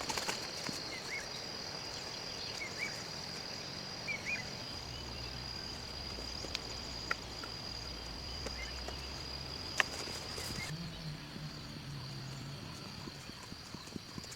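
An insect calls with a steady high-pitched drone that stops about three-quarters of the way through, over outdoor rural ambience with a few faint short chirps and a couple of light clicks.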